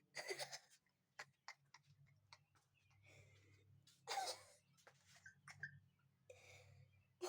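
Mostly quiet, with a few short breathy bursts of held-in laughter, one just after the start and a louder one about four seconds in, and small scattered clicks.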